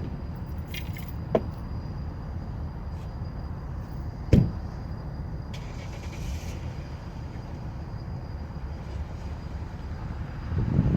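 Diesel switcher locomotive running in a low steady rumble while switching freight cars, with two sharp knocks, the second one loud, and a short hiss a little after it.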